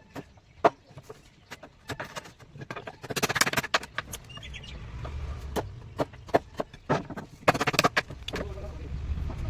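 Hand woodworking on timber: scattered sharp knocks, and two longer rasping strokes, one about three seconds in and one near the end. A low rumble builds underneath in the second half.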